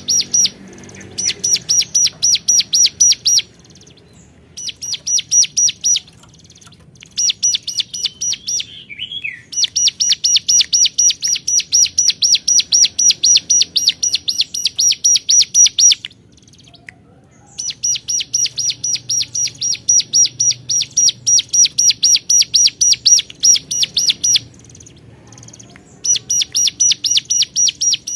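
A ciblek gunung, a prinia, calling in long bouts of rapid, evenly repeated high 'cuap' notes, about four a second, with short pauses between bouts. This loud, persistent calling is the challenge call used to answer a rival.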